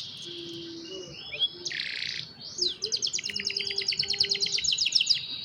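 Young domestic canaries singing: a warbling phrase, a short harsh rasping note about two seconds in, then a fast rolling trill of rapidly repeated notes.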